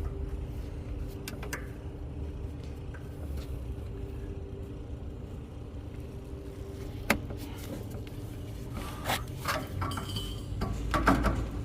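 Light metallic clicks and clinks from copper refrigerant line-set tubing being cut and handled: one sharp click about seven seconds in and a cluster of clicks near the end, over a steady low hum.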